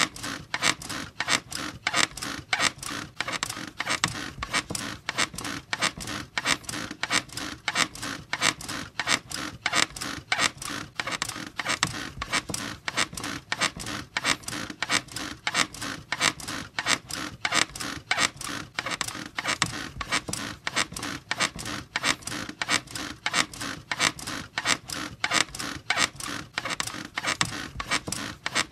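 Bed squeaking in a steady rhythm, a few squeaks a second, as the frame and springs are rocked over and over.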